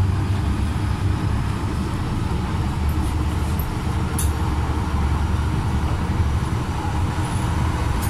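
Interior running noise of an MTR M-Train travelling at speed: a steady low rumble of wheels on rail, with a couple of brief faint high clicks about three and four seconds in.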